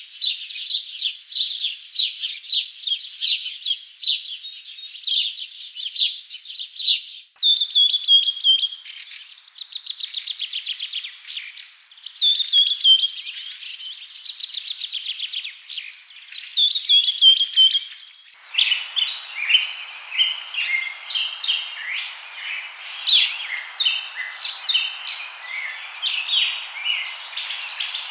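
Small songbirds chirping and singing in rapid high notes and trills. The recording changes abruptly twice, about seven seconds in and again about eighteen seconds in, and the last part has a steady hiss beneath the calls.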